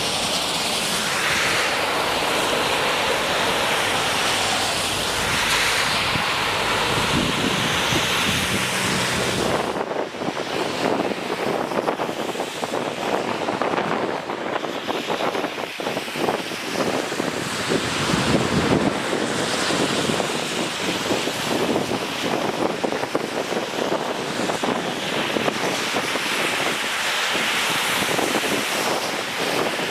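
Steady rush of rainwater with wind on the microphone; about ten seconds in the low rumble drops away and the rushing turns more uneven.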